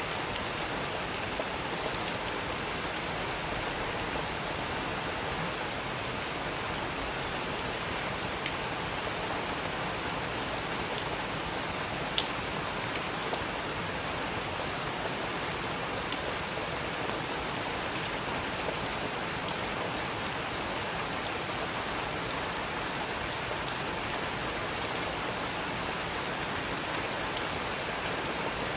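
Steady rain falling, with a wood fire crackling beneath it: a handful of sharp pops, the loudest about twelve seconds in.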